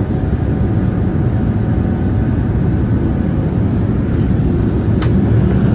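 Steady low rumble of cabin noise inside a Boeing 787-9 airliner in flight: jet engines and airflow heard from a passenger seat. A single short click sounds about five seconds in.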